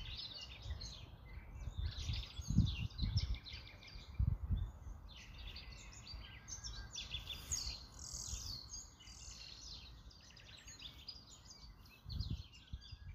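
Birds chirping and twittering continuously, with a few dull low thumps, about two and a half seconds in, four seconds in, and near the end.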